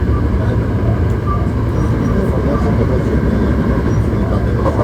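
Hankyu 1300-series electric train running at speed between stations, heard from inside the car: a steady, loud noise of wheels on rail and car body. A few faint brief squeaks come through.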